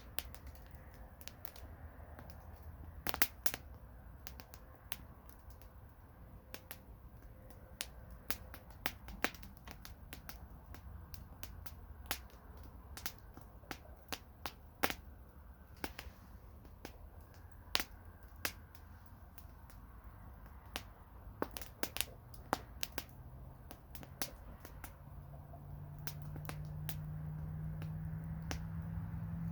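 Campfire crackling: burning wood gives irregular sharp pops and snaps over a low rumble of the flames. Over the last few seconds a low steady hum grows louder.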